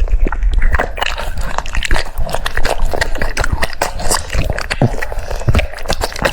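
French bulldog chewing crunchy food: rapid, irregular crunches and wet smacking bites.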